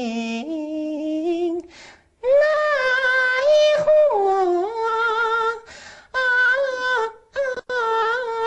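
Kunqu opera singing in a high female-role voice, drawing out long held notes with a wavering vibrato. The singing breaks off briefly about two seconds in, near six seconds and about seven seconds in.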